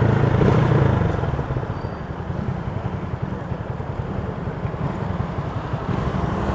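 Motorcycle engine running on the road. Its note drops about a second in, settling into a lower, fast pulsing run. The rider says its carburetor is playing up and catching.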